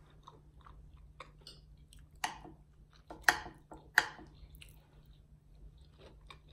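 A person chewing a mouthful of smothered potatoes, with small wet mouth clicks. Three sharp clicks of a metal fork against the plate, about a second apart, come midway and are the loudest sounds.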